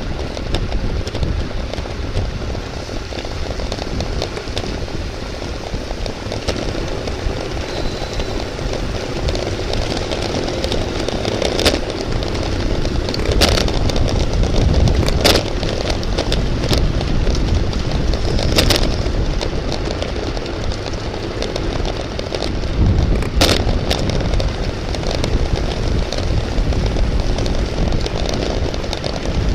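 Wind buffeting a bicycle-mounted camera's microphone at race speed, a steady loud rumble, with a few sharp clicks scattered through it.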